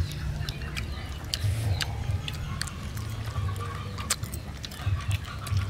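Close-up chewing and crunching of crispy grilled food, with many sharp crackles scattered through, over a steady low rumble.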